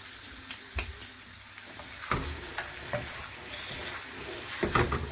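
Chicken liver masala sizzling in a wide, shallow metal pan. From about two seconds in, a wooden spoon stirs and scrapes the pieces around the pan in repeated strokes, loudest near the end.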